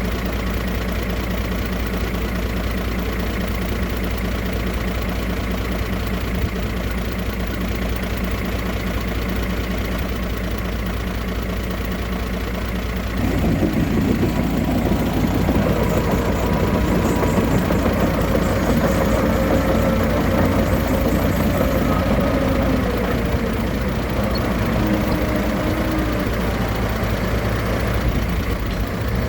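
Heavy diesel earthmoving machinery running steadily, growing louder about halfway through.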